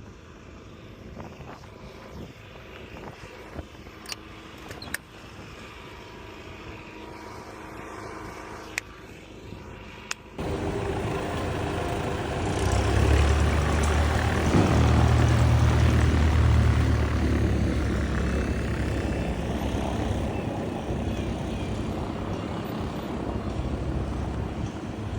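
A quieter stretch with a few sharp clicks, then, about ten seconds in, a loud engine with a deep low rumble starts abruptly and keeps running.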